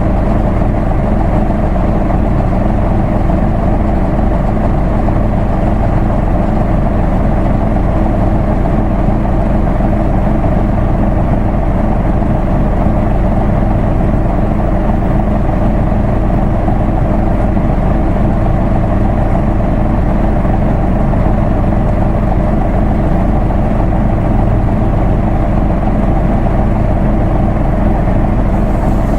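Isuzu Erga Mio bus's straight-six diesel engine running at a steady, unchanging speed, a constant low drone.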